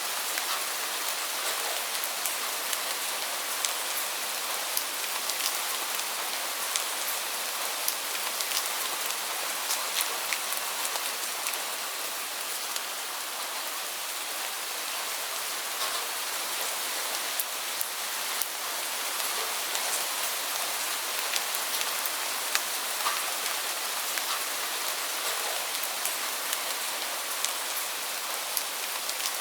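Heavy rain falling steadily, a dense even hiss with many distinct drops ticking on surfaces throughout.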